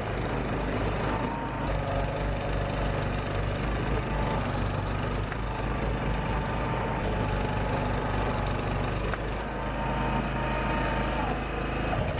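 Yamaha YT660EDJ snowblower running steadily under load, its engine note held with a constant rushing noise over it.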